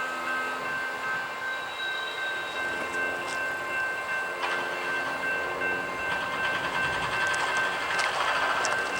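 Freight train rolling past, with steady high-pitched ringing tones held throughout and a few sharp metallic clicks in the last few seconds.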